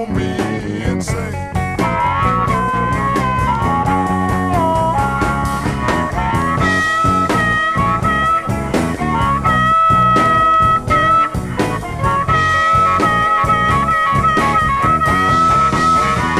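Blues band playing an instrumental passage: guitars, bass and drums keeping a steady beat under a lead line of long held notes that bend in pitch.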